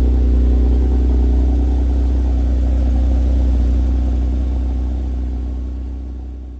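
Car driving at a steady pace: a steady low engine and road rumble with a faint hum above it, fading out over the last couple of seconds.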